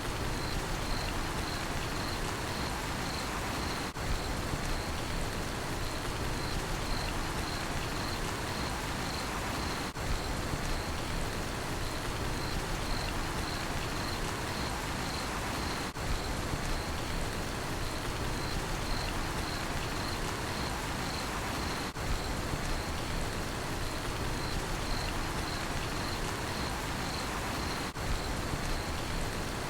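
Steady rain falling, with a cricket chirping in a steady rhythm of about two high chirps a second.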